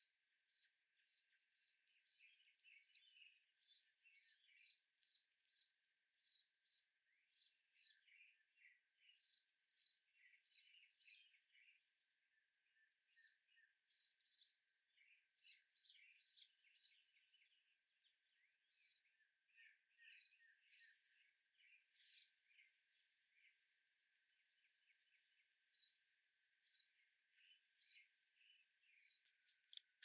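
Small songbirds chirping: a faint stream of short, sharp chirps, about two a second at first and sparser in the second half, over softer twittering from other birds.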